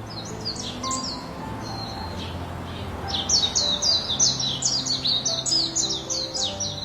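Small songbird chirping: a few high chirps, then about halfway through a fast run of repeated chirps at roughly five a second. Soft background music with held notes plays underneath.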